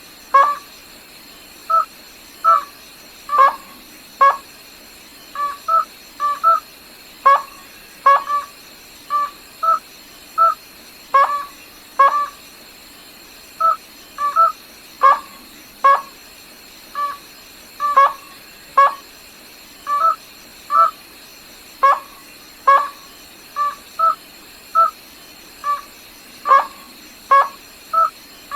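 A rail, the bird the uploader calls gà nước họng trắng (white-throated rail), giving a long run of short, sharp calls, some single and some doubled. They repeat at roughly one a second over a steady background hiss. These are its flock-gathering calls.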